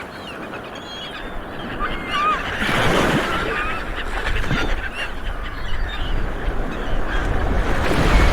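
A crowd of seabirds calling, many short overlapping honking squawks and yelps, over a steady low rumble.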